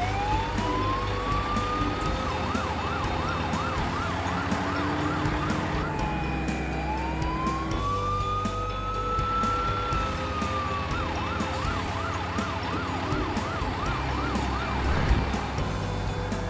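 Fire truck siren going: a slow rising wail that switches to a fast yelp of about three sweeps a second, back to a long wail rising and falling in the middle, then the fast yelp again. A steady low engine rumble runs underneath.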